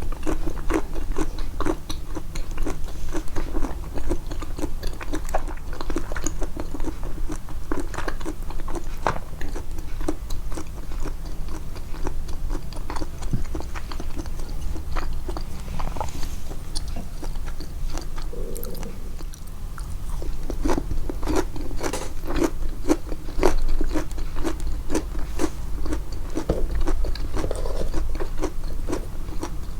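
Close-miked chewing: a steady run of crisp, crunchy bites and wet mouth clicks. The chewing eases for a moment a little past halfway, then picks up again.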